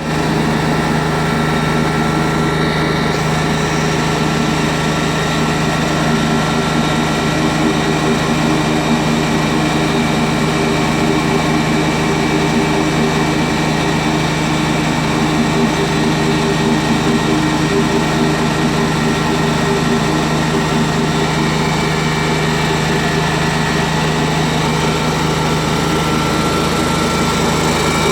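Stump grinder running at a steady speed, its engine and cutting wheel holding one even note with no breaks.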